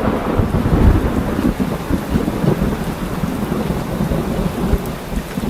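Heavy rain falling with a low rumble of thunder that is loudest in the first second or so and slowly dies away.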